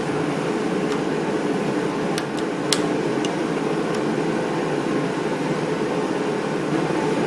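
Steady whirring hum of a blower running, with a few light metallic clicks about two to four seconds in as a screwdriver works at the starter's retaining clip.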